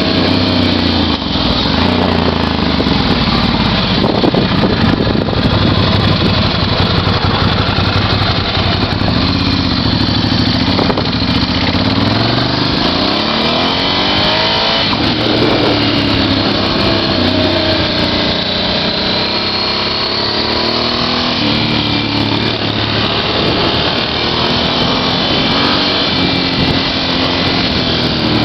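Motorcycle engine running under way, its pitch rising and falling as it is revved up and eased off through gear changes, with road and wind noise.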